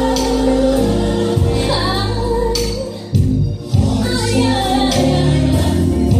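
Gospel music with a choir singing over a steady bass and beat.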